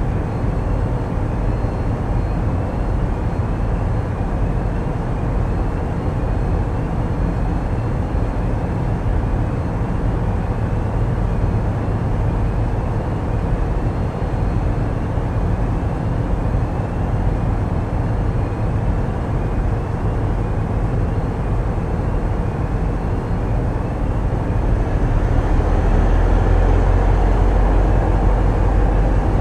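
Tugboat diesel engines running steadily, a deep low rumble that grows louder about 25 seconds in.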